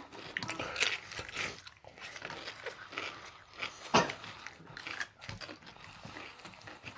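Eating sounds: irregular chewing and biting with wet clicks and crunches. A single sharp knock about four seconds in is the loudest.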